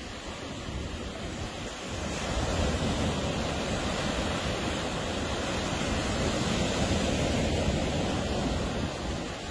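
Ocean surf washing onto a beach, a steady rush that swells into a louder wave about two seconds in and eases off near the end.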